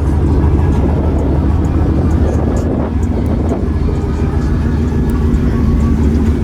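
Truck engine running with a steady, deep low rumble.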